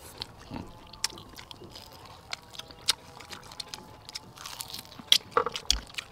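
People chewing and biting into crispy fried chicken legs, with scattered short crunches and mouth clicks. A cluster of louder crunches comes about five seconds in.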